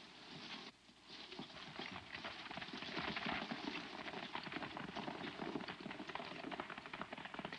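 Hoofbeats of horses, a dense, rapid clatter of hooves, over the hiss of an old film soundtrack. There is a brief lull just under a second in.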